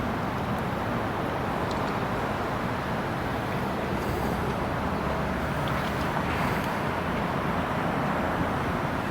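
Steady rumbling vehicle noise that holds at an even level, with no distinct events.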